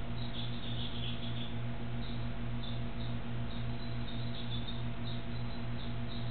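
Steady low hum that pulses evenly throughout, with faint, scattered short scratchy ticks over it.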